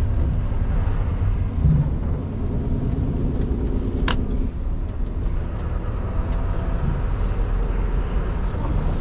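Scania R620 V8 diesel truck engine running steadily under way, a constant low rumble with road noise. There is a sharp click about four seconds in.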